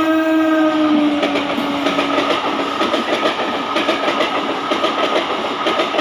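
Passing train's horn sounding and dropping in pitch about a second in as it goes by, giving way to the clattering rattle of the carriages' wheels over the rail joints.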